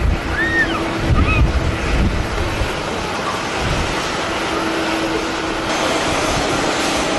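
Strong gusting wind buffeting the microphone over the steady noise of jet airliners at the airport, with a faint engine hum that comes and goes.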